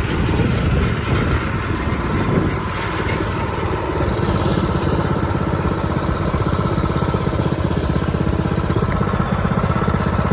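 Mini bike's small engine running, uneven for the first few seconds, then settling about four seconds in to a steady, evenly pulsing idle.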